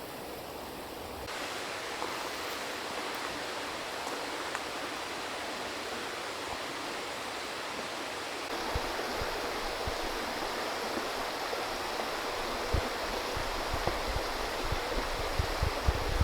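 Valley stream rushing steadily over rocks, a continuous water noise that gets louder in steps about a second in and again halfway through, with a few low thumps near the end.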